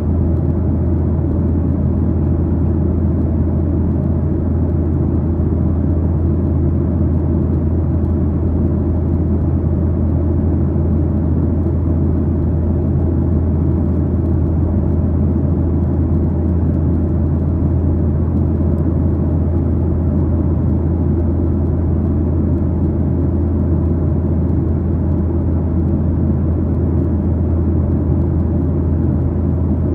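Boeing 737-900ER's CFM56-7B turbofan engines and airflow heard inside the passenger cabin as a steady, even low drone.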